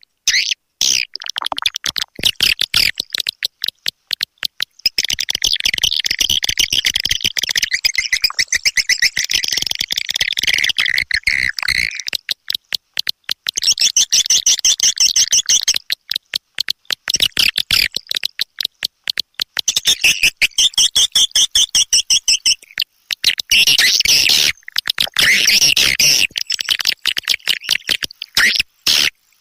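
Swiftlet lure call: rapid, high-pitched trains of twittering chirps and clicks, broken by short pauses every few seconds. It is the call recording played to attract swiftlets into a nesting house.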